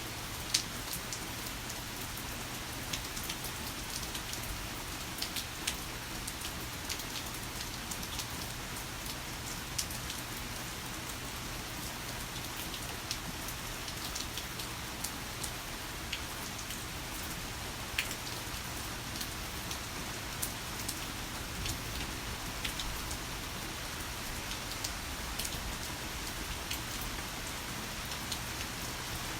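Heavy rain falling steadily, a constant hiss with many sharp, separate drop hits on a nearby surface scattered through it.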